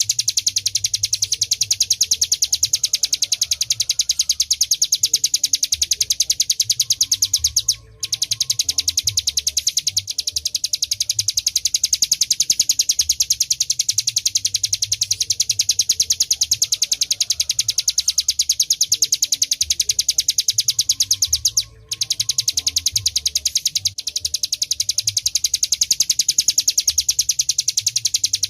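Hill prinia (ciblek gunung) singing a long, very fast trill of high notes, broken by two short pauses about eight seconds in and near the end.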